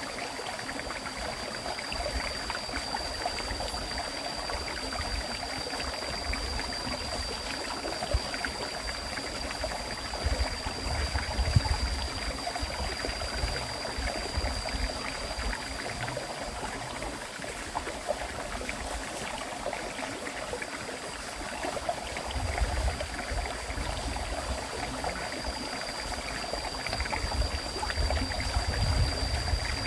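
River water flowing steadily, with a thin high steady tone above it and heavier low rumbles about ten seconds in and again near the end.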